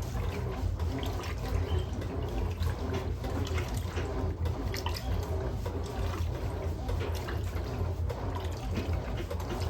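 Electrolux LM08A top-load washing machine agitating a load of towels with its dual-action agitator: a steady motor hum under continuous water sloshing and splashing in the tub.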